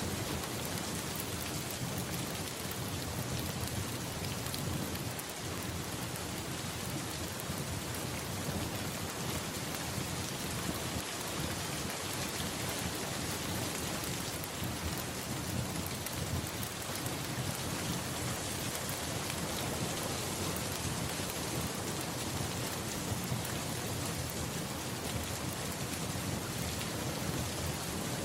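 Steady rain falling, an even unbroken hiss with no pauses.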